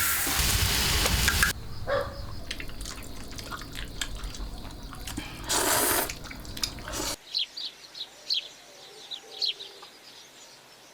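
Food sizzling in a pan, which stops about a second and a half in, then cooking clatter with a dripping, watery sound and a short rush of noise. After a sudden cut about seven seconds in, small birds chirp in short calls about once a second over a quiet background.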